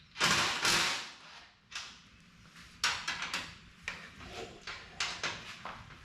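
Handling noise from fitting a door valance: a brief loud scraping rustle near the start, then scattered clicks and knocks of hardware and panel being worked.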